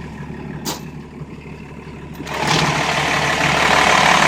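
12-valve Cummins inline-six diesel idling with a steady low rumble. A sharp click comes about a second in, and just after two seconds the engine sound becomes much louder and fuller.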